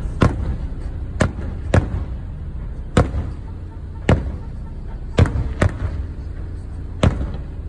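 Aerial firework shells bursting overhead: about eight sharp bangs at irregular intervals, some a second or more apart and some in quick pairs.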